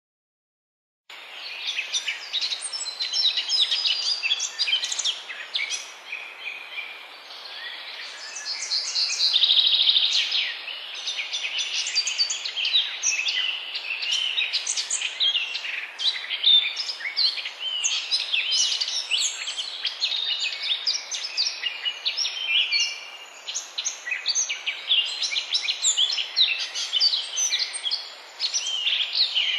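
Chorus of many songbirds singing and chirping at once over a steady background hiss, starting about a second in; a louder buzzing trill stands out about ten seconds in.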